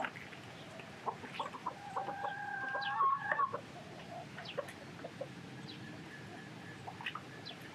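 Chickens clucking, with one longer drawn-out call about two seconds in.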